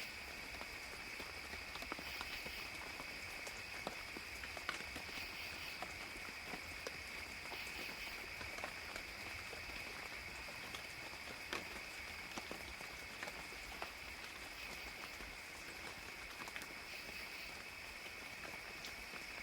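Soft forest rain ambience: a gentle patter with scattered drops, over a steady high insect chorus.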